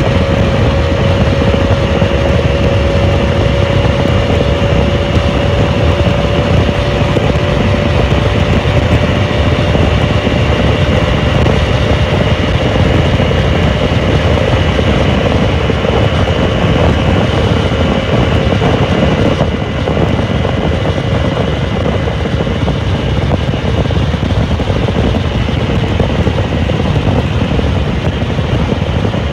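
Dominar 400's single-cylinder engine running steadily at high highway speed, mixed with heavy wind rush. The engine note rises slightly, then softens a little about two-thirds of the way through.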